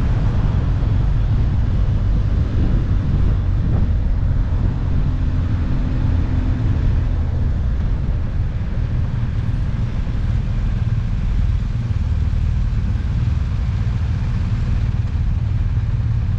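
Motorcycle on the move: a steady engine rumble under heavy, continuous wind rush on the microphone.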